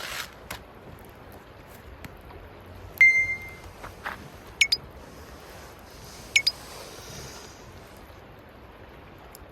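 Campfire burning with a steady low rush and scattered sharp crackles and pops, the loudest a quick pair about four and a half seconds in and another just after six seconds. A short high-pitched squeal sounds about three seconds in.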